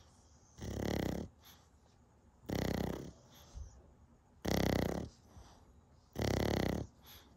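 A sleeping dog snoring: four rasping snores, one about every two seconds, each lasting about half a second.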